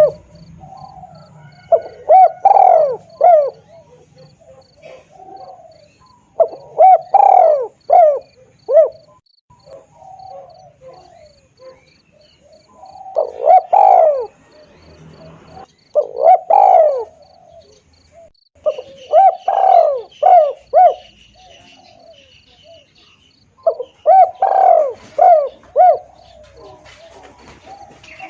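Spotted dove (tekukur) cooing: loud phrases of several coo notes repeated every few seconds, with short gaps between them. A faint, steady high ticking of about two to three ticks a second runs underneath.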